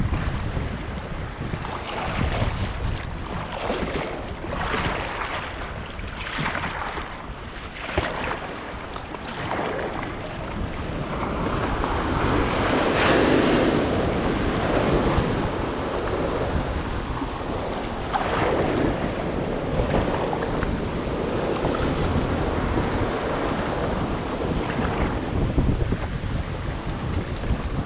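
Wind buffeting the microphone over sea water washing and splashing against a kayak and rocks, with a louder surge of surf about twelve to fifteen seconds in and another shortly after.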